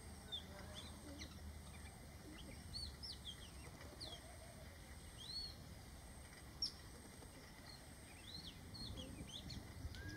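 Oriental magpie-robin singing: short, curving whistled notes that rise and fall, coming at irregular intervals, faint over a low background rumble.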